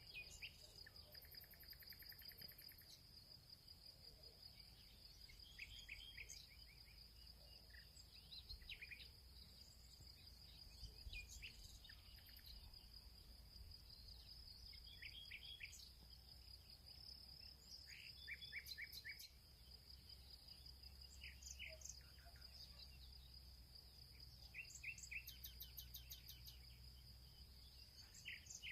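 Faint field ambience: a steady high insect trill runs throughout, with scattered short bird chirps, often in quick runs of three or four.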